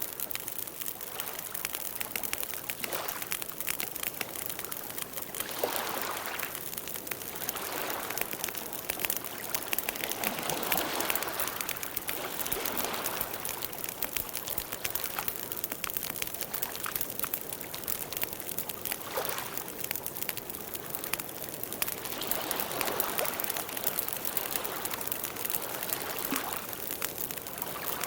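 Campfire burning: wood crackling with many small pops over a soft hiss of flame that swells and fades every few seconds.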